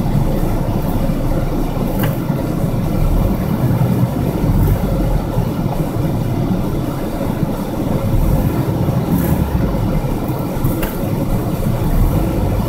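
Car engine running steadily with road noise, heard from inside the cabin of a manual-transmission car, with a faint click about 2 seconds in and another near the end.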